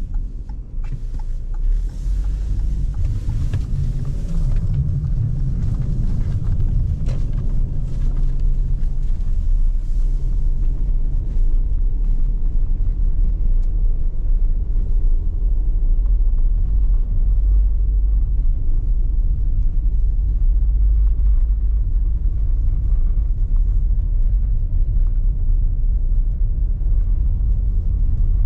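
Car driving, with a steady low rumble of engine and road noise. A broader hiss of tyres over the road rides on top for roughly the first ten seconds, then fades.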